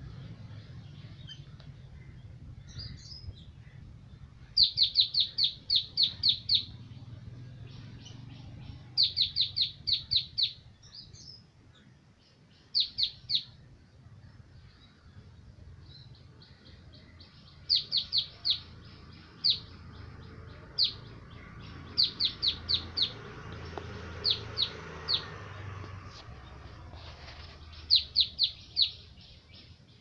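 A bird calling in quick runs of sharp, high chirps, several notes to a run, repeated every few seconds, over a faint low background rumble.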